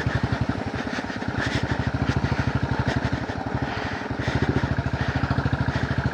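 Motorcycle engine running at an even pace while riding, a quick steady train of exhaust pulses, a little louder from about four seconds in.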